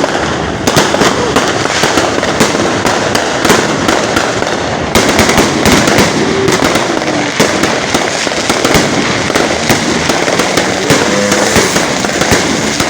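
Ground fountain fireworks spraying sparks: a continuous hissing spray full of dense crackling, growing louder about five seconds in.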